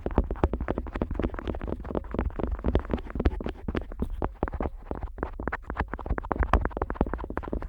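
An otoscope rubbed and scraped over the outer ear of a Neumann KU100 dummy-head microphone, heard close up: a dense run of quick scratchy, crackling contacts, many each second, over a low rumble.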